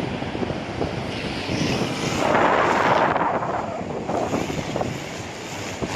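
Strong wind blowing across the microphone, with a louder gust about two seconds in.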